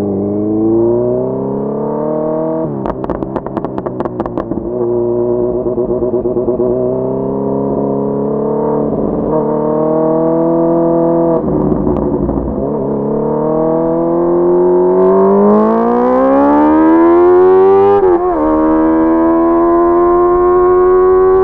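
Honda CBR650R's inline-four engine running under way, its pitch easing and rising with the throttle. About two-thirds of the way in it climbs steadily for a few seconds, breaks off briefly for a gear change, then climbs again from a lower pitch.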